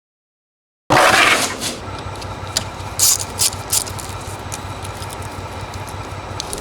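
Silence, then from about a second in a sudden start of a steady low hum, with a few sharp clicks and scrapes over it.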